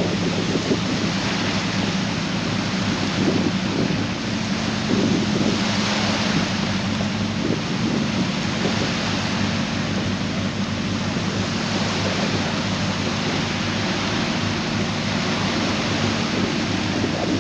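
A Jeep's engine running with a steady low drone under a continuous rush of churning water as it wades through a lake.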